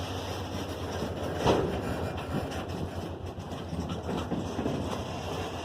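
A train rolling past, a steady rumble with a sharp louder wheel knock about a second and a half in and fainter knocks later.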